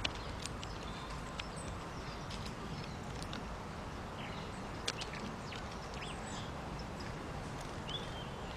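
Outdoor garden ambience: a steady low background rumble with a few faint, short bird chirps and ticks scattered through it, and one sharp click about five seconds in.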